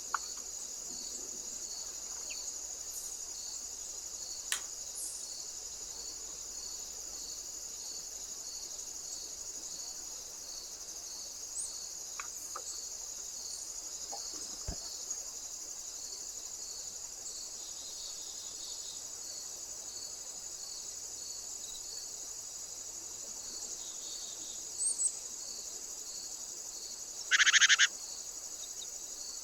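Steady high-pitched trilling of insects with an even pulse, broken by a few faint clicks. Near the end comes a loud, short buzzing call lasting under a second.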